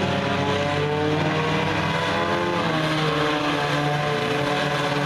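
Several race car engines running together on the track, their pitches overlapping and shifting as the cars rev, with one engine note sweeping down and back up about halfway through.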